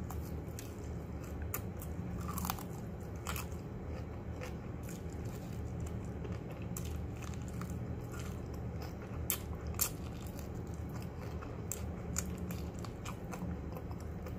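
Close-up eating sounds of fried chicken: biting and chewing, with scattered short crunches and wet mouth clicks, over a steady low hum.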